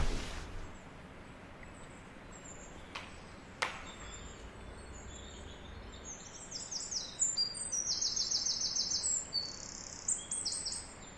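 Birds chirping in quick runs of high notes over faint outdoor background noise, starting about six seconds in; two sharp clicks a little after three seconds.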